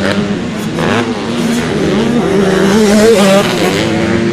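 Racing motorcycle engines running hard and revving. The pitch climbs about halfway through and falls back near the end.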